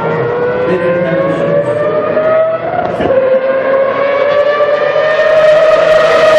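Mazda rotary-engined Group C race car accelerating at high revs with a high, wailing engine note. The pitch climbs, drops sharply on an upshift about three seconds in, then climbs again.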